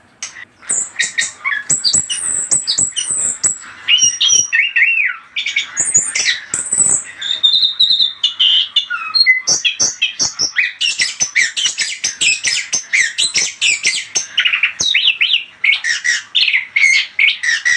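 Orange-headed thrush (anis kembang) singing a fast, varied song of quick whistles and harsher chattering notes. The song starts under a second in, after a brief quiet.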